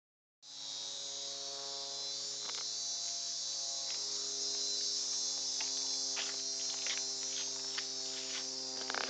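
Steady, high-pitched chorus of insects, crickets or similar, with a faint low steady hum underneath.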